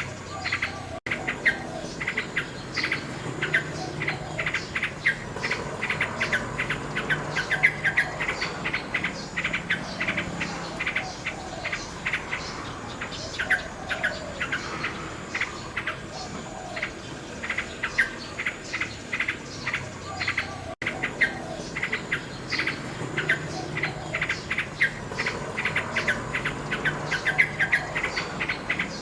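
Nightingale singing: fast runs of sharp repeated notes and trills, phrase after phrase, over a steady high chirring of insects.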